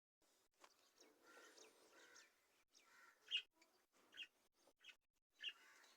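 Pet budgerigar giving faint short chirps, four of them in the second half, spaced under a second apart.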